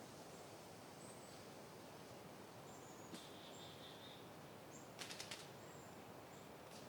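Soft, faint wind noise, with a few distant small birds giving short high chirps. About five seconds in comes a quick run of four ticks.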